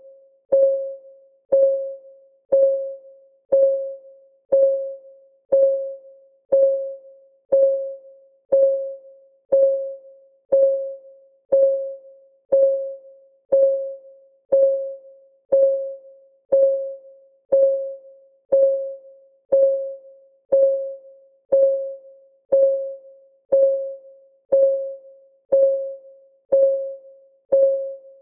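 Clock-ticking sound effect of a countdown timer: a short pitched tick once every second, each one dying away quickly, always at the same pitch.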